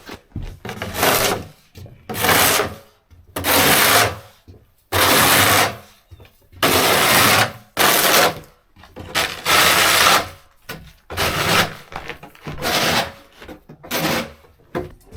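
A hand tool rasping in a dozen or so back-and-forth strokes, each about half a second to a second long, with short uneven pauses between them.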